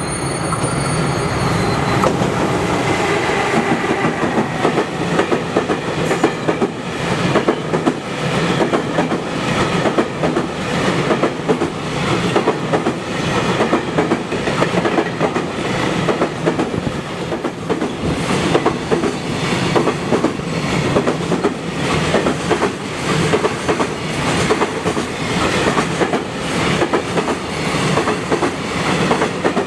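Freight train's container wagons rolling past, wheels clattering rhythmically over the rail joints in a steady, repeating clickety-clack.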